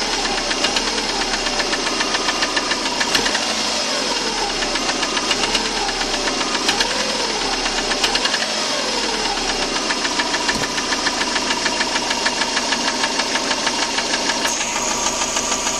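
Subaru EJ205 2.0-litre turbocharged flat-four engine running with a rapid, regular knock. Its speed rises and falls a little in the middle, then holds steady.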